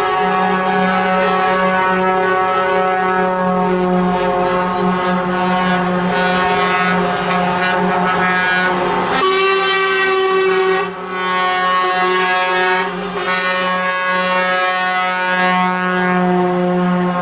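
Truck air horns sounding continuously, several horn tones overlapping at once as a chord, with a short dip about eleven seconds in.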